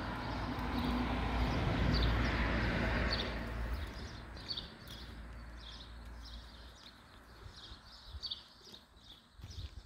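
Small birds chirping repeatedly in short high calls. Over the first few seconds a broad rumbling noise swells and then fades away, like a passing vehicle or a gust of wind.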